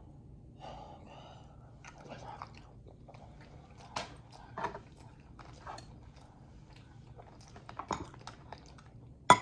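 Close-up eating sounds of boiled Dungeness crab: soft chewing with scattered short clicks and cracks as shell is picked apart by hand, the sharpest crack near the end.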